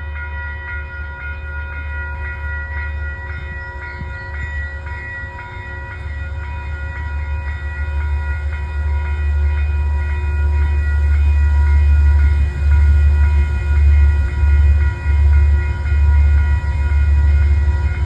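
Diesel locomotive of a passenger train at the station, its engine running with a deep rumble that grows steadily louder, under a few faint steady high tones.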